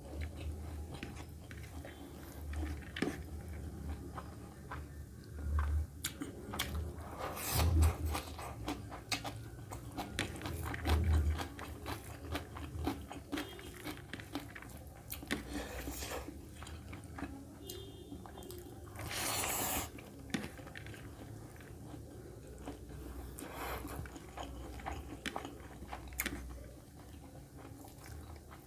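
Close-up eating sounds: a person chewing and biting mutton curry with rice, with irregular wet smacks and crunchy bites, likely green chilli or raw salad, and now and then a louder rustle or scrape.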